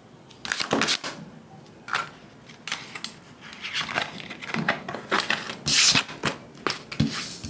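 Tarot cards being handled: an irregular run of crisp flicks, slaps and short swishes as cards are shuffled, drawn and laid down.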